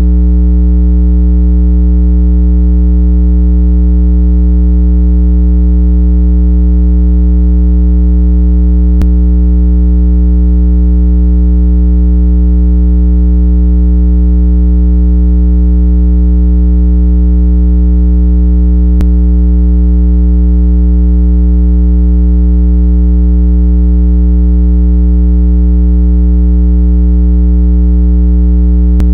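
Loud, steady low electronic tone, a 165 Hz speaker water-eject tone with several overtones, holding unchanged throughout. A faint click sounds about every ten seconds.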